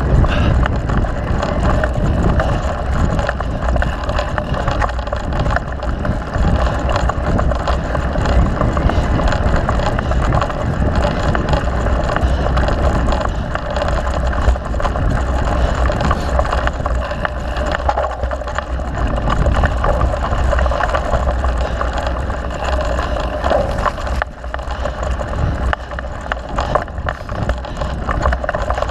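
Mountain bike rolling and rattling over a dirt trail, with wind buffeting the microphone as a steady low rumble.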